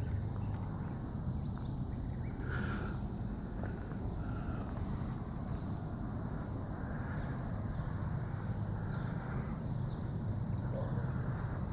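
Steady outdoor background noise with a low hum, and a few faint brief high chirps about two and a half and five seconds in.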